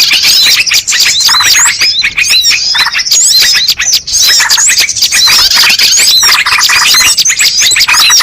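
Dense, loud chorus of many small songbirds chirping and trilling at once, with rapid overlapping high-pitched notes and short upward whistles. It is a bird-lure (pikat) recording meant to draw wild birds in.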